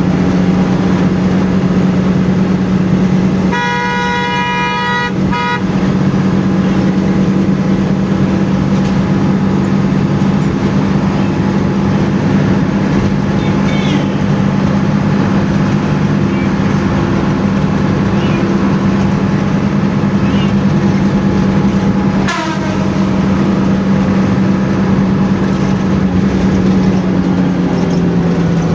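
A bus engine runs steadily at highway speed, with road noise. A vehicle horn sounds once for about two seconds early on, and there is a brief dip with a click about two-thirds of the way through.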